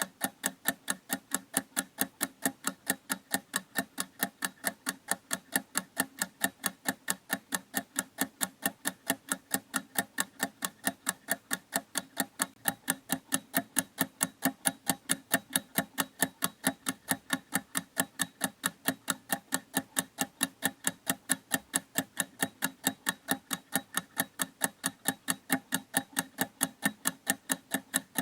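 Clock ticking in a steady, even rhythm of about four sharp ticks a second.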